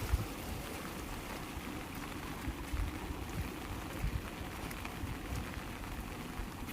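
Heavy rain falling steadily, with irregular low thuds mixed into the hiss.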